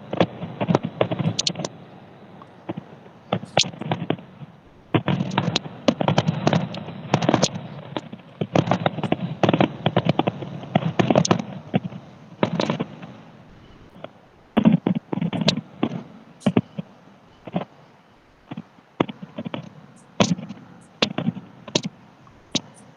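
Consumer fireworks going off: dense runs of sharp pops and crackles in several clusters, thinning to scattered single cracks in the second half.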